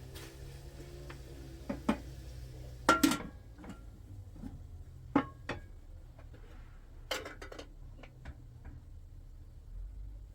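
Scattered knocks and clinks of objects being handled, with a loud double knock about three seconds in, over a low steady hum.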